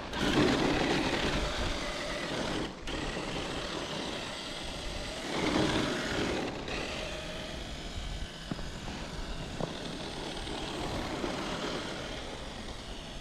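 Electric RC truck running through snow: motor and gear whir with tyres churning, surging louder twice, once just after the start and again about halfway through.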